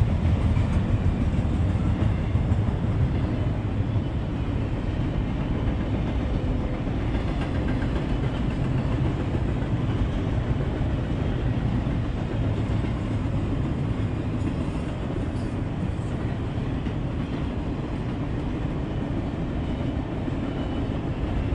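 Double-stack container cars of an intermodal freight train rolling past: a steady low rumble of wheels on rail, easing a little in the second half.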